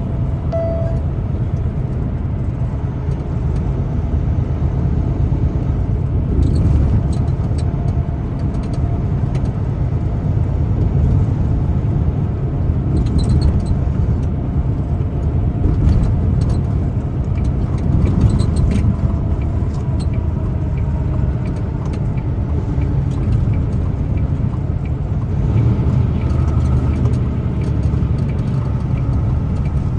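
Steady low rumble of a truck's engine and tyres heard from inside the cab while driving, with occasional light rattles.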